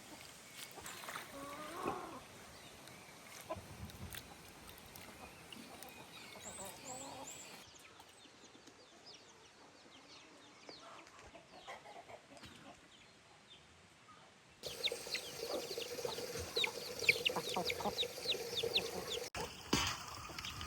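Domestic chickens clucking, then about two-thirds of the way in a louder stretch of many rapid, high chicks' cheeps.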